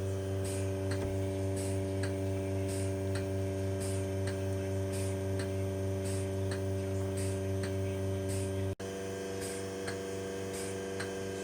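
Milking machine running: a steady vacuum-pump hum with the pulsator ticking about twice a second. Near the end the sound drops out for an instant and comes back a little quieter.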